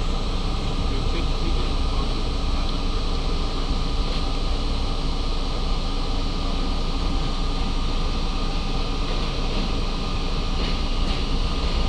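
R32 subway train running along the track, a steady rumble of wheels and motors with a few faint clicks near the end.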